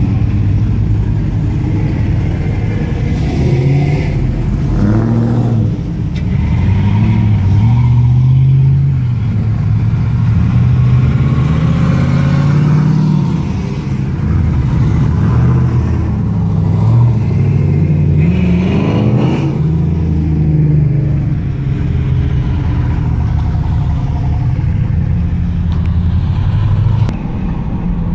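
Truck engines running as vehicles drive by, their pitch rising and falling as they rev up and ease off.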